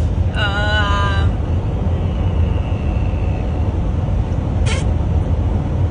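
A man's wordless vocal sound effect: a short wavering, pitched cry about half a second in, over a steady low rumble.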